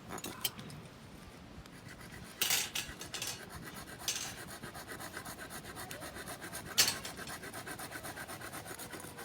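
Repeated rubbing or scraping strokes in a quick, even rhythm, with a few sharp clicks or knocks standing out above them.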